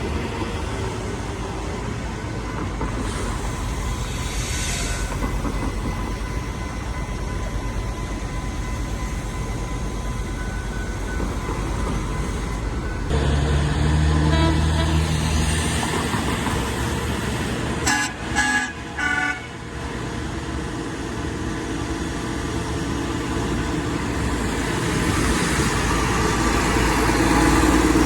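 A vehicle running with a steady low rumble, with a few short horn toots about two-thirds of the way through.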